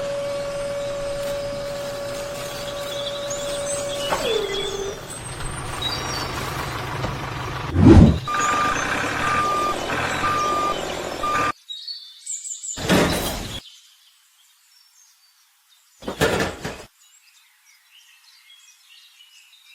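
Truck sounds: an engine running under a steady horn-like tone that drops in pitch about four seconds in, then a loud thump, then a reversing beeper sounding about four times. After that the sound cuts out, leaving three short noisy bursts.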